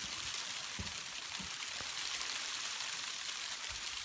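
Hail and rain coming down hard, a dense steady hiss of countless small strikes, with a few soft low thumps in the first two seconds.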